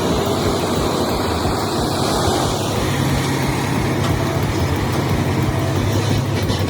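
Heavy truck engine running steadily, a low even drone that grows a little stronger about three seconds in.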